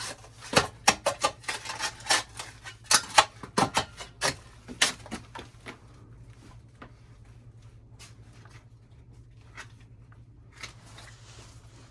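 Shovel digging into loose soil: a quick run of scrapes and scoops for about five seconds, then a few scattered scrapes.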